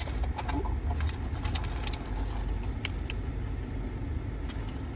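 Steady low rumble of a running car engine, with scattered light clicks of ice in a cup of lemonade being sipped.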